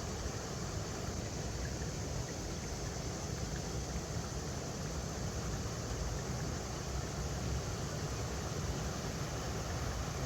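River water flowing steadily over rocks: a continuous, even rushing with a strong low rumble.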